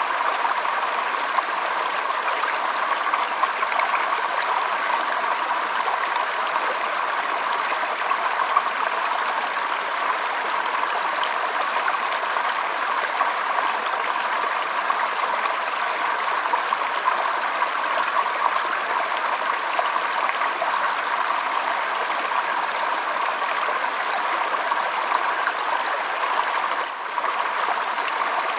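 Stream water running and splashing steadily over stones, a continuous bright rushing babble with a brief dip near the end.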